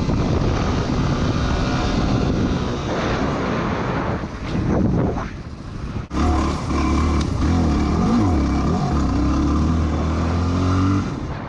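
Off-road vehicle engine running as it is ridden, its pitch rising and falling with the throttle. The sound changes abruptly about six seconds in, to a steadier, deeper engine note.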